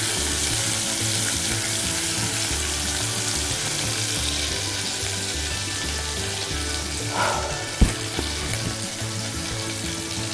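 Minced garlic sizzling in hot oil in a pot as it browns, a steady hiss. A single sharp knock comes about eight seconds in.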